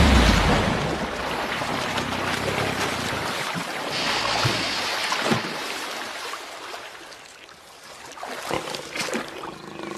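Water splashing and churning as a leopard struggles with its prey in the water. It is loudest at the start and dies away over several seconds, with a few short sharp splashes near the end.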